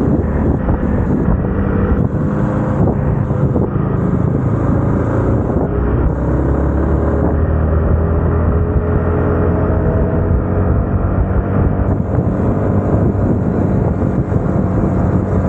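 Yamaha MT-15's single-cylinder engine and exhaust running on the move, with wind noise over the microphone. The engine note climbs steadily in the second half as the bike accelerates.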